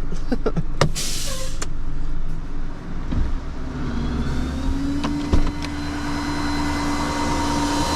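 A vehicle running, with a steady low rumble. About three and a half seconds in, a whine rises slightly and then holds steady. A few sharp clicks come near the start and twice around five seconds in.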